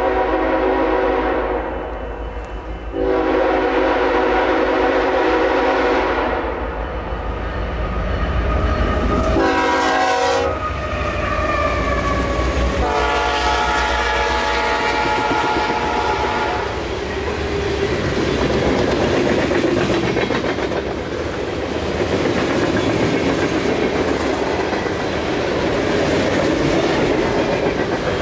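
Diesel locomotive horn sounding the grade-crossing signal (a long blast, a second long blast, a short one about ten seconds in, then a final long one) over the engine's deep rumble. From about seventeen seconds in, coal cars roll past with steady wheel clatter.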